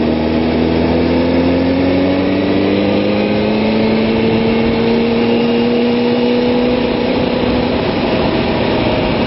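Kawasaki ZX-6R inline-four sportbike engine pulling in 4th gear under steady throttle, its note rising gradually as speed builds, with heavy wind rush; the engine tone changes about eight seconds in.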